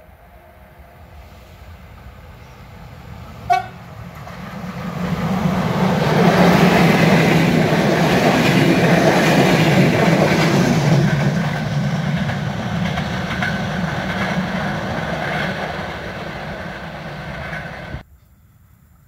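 A train approaching and passing close by. A short horn toot sounds about three and a half seconds in, then the noise of the train going by swells, loudest in the middle, fades as it recedes, and cuts off abruptly near the end.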